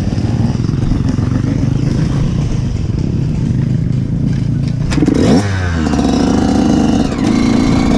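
Off-road motorcycle engine running at low revs, then revving up about five seconds in and holding a higher, steady note.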